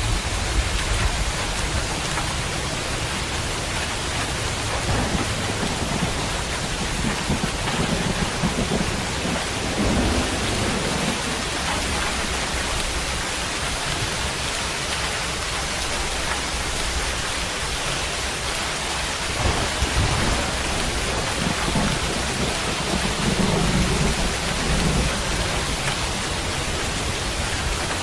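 Steady heavy rain falling, with low rolling thunder that swells a few seconds in and rumbles again in the second half.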